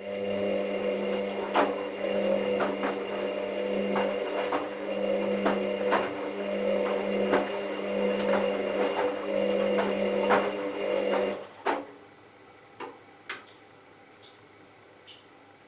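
Hoover VisionTech washing machine's motor humming steadily as it turns the drum, with irregular knocks of the tumbling wash load, then stopping abruptly about eleven seconds in. A few faint clicks follow.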